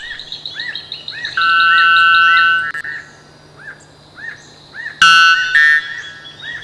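White bellbird calling: two loud, ringing, bell-like notes, a long one about a second and a half in and a shorter one about five seconds in. They sound over a steady run of short, repeated chirps, about two a second.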